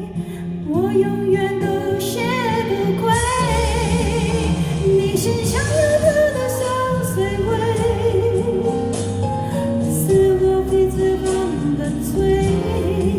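Live pop music: a female voice sings held, wavering notes over a band backing track.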